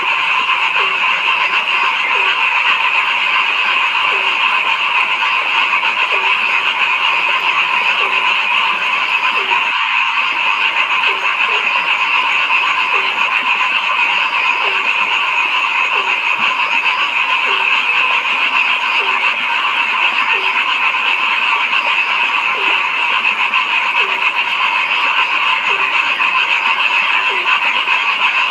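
A dense night chorus of frogs: a steady high, overlapping calling with lower single croaks repeating about once a second. The chorus breaks off briefly about ten seconds in.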